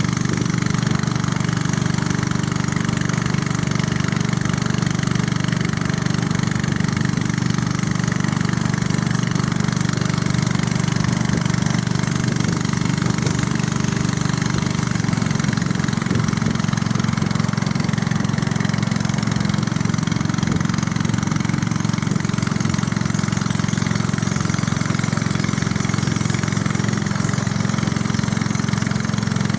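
Small boat's engine running steadily, its pitch shifting slightly about halfway through.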